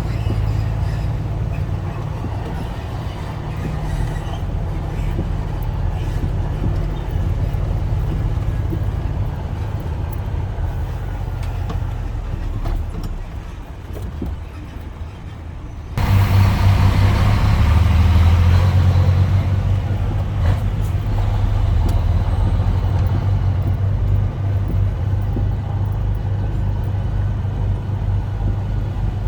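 Scania truck's diesel engine running steadily under way in direct-drive gear, a deep, even hum with road noise. About two-thirds of the way through, the sound jumps suddenly louder, with a brief hiss for a few seconds.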